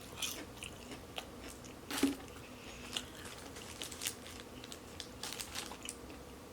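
Close-miked eating of breaded fried food: crunchy bites and chewing with wet mouth clicks, the sharpest bite about two seconds in and a run of crunches near the five-second mark.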